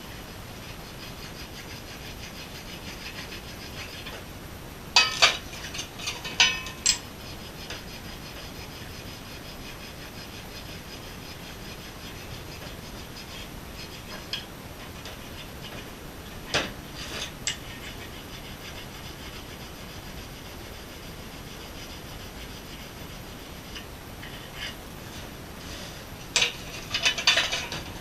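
Engine parts being rubbed and scrubbed clean by hand, with clusters of sharp metal clinks and knocks as parts are picked up and set down, three times.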